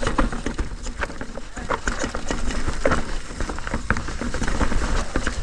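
Mountain bike rattling over a rough trail: a dense, irregular run of small clicks and knocks from the bike over a steady low rumble.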